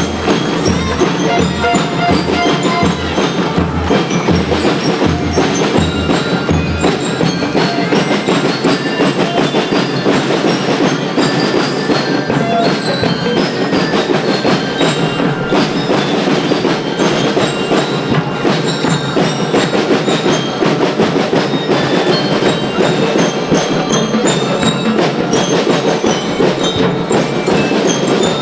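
School rhythm band playing, with bell lyres ringing out the melody over drums and percussion. A low drum beat about twice a second drops out after about seven seconds while the bells and percussion carry on.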